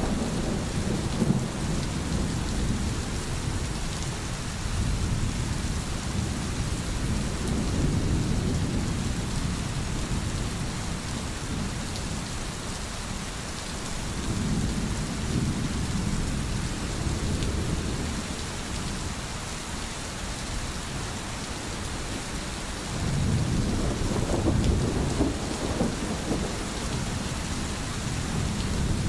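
Steady rain hiss with distant thunder rumbling low underneath, swelling and dying away about three times.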